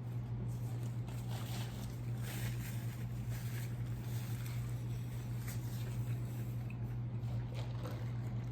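Close-miked chewing and wet mouth sounds of a person eating fried food, coming in irregular bursts, heaviest in the first half and again near the end. Under it runs a steady low hum.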